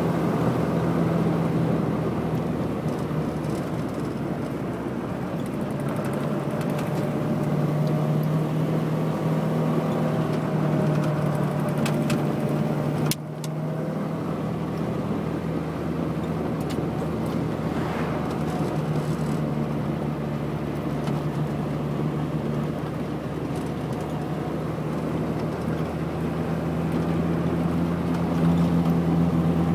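1965 Morris Minor's 1098 cc A-series four-cylinder engine running steadily while driving, with road and wind noise. The sound breaks off sharply for a moment about halfway through and gets louder near the end.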